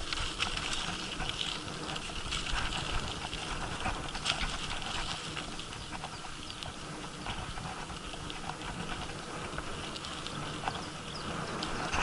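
A bicycle in motion: wind rumbling on the microphone and a steady run of small clicks and rattles from the bike.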